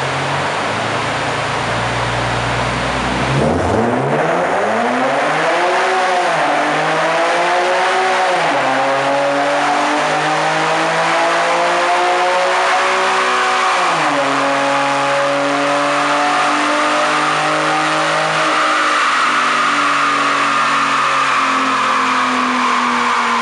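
Infiniti G37xS's V6 engine through an aftermarket cat-back exhaust with resonated test pipes, running on a chassis dyno. It idles, then about three and a half seconds in it pulls hard at full throttle, the pitch climbing and dropping back at each of three upshifts. Over the last several seconds the revs slowly ease off. A steady hiss from the dyno rollers and tyres runs underneath.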